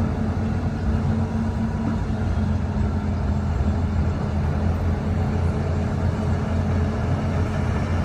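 Heavy diesel earthmoving machinery running steadily: a constant low engine drone at an even pitch.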